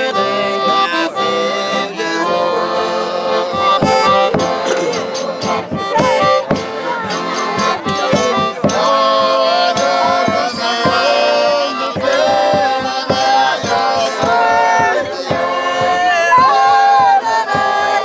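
Traditional Brazilian folia music led by an accordion, with frequent percussion strikes and voices singing.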